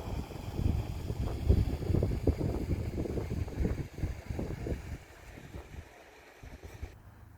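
Wind buffeting the microphone: gusty low rumble with irregular thumps that dies down about five seconds in, leaving a quiet background.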